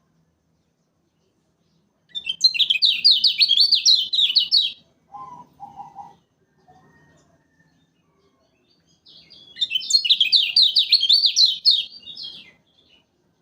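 Kecial kuning (a white-eye) singing: two loud bursts of fast, high, chattering twitter, each two to three seconds long, with a few short, lower chirps between them.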